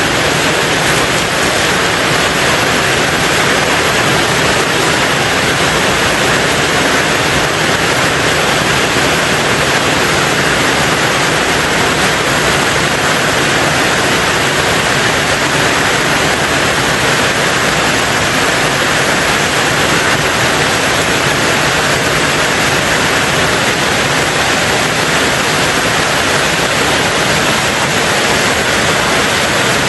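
Rain falling steadily on a tin roof, a dense, even hiss that does not change.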